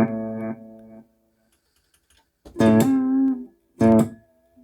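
Guitar played through a Peavey UltraVerb digital multi-effects processor, whose effects now work again after a system reset. A held note fades out about a second in, and after a short gap two more notes follow.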